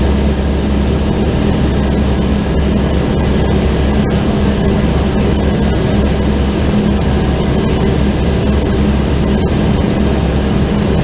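Aquila A211's Rotax 912 piston engine and propeller droning steadily in cruise flight, heard from inside the cockpit as an even, loud low hum.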